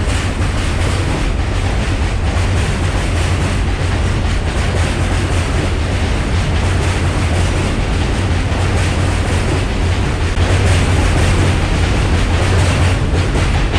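New York City Subway train running, heard from inside the car: a steady, loud rumble of wheels on rail under a low, even hum.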